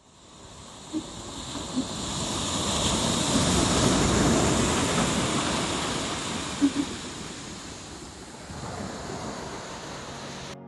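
Ocean surf: a wave builds to a wash about four seconds in and then eases off, with a few brief knocks along the way.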